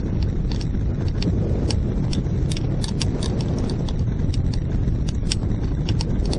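Strong wind buffeting the microphone in flight, a loud, steady rumble. Irregular sharp ticks and clicks come several times a second on top of it.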